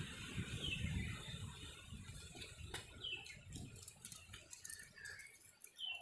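A bird calling with short, high, falling chirps a couple of seconds apart, over a low rumbling background and a few faint clicks.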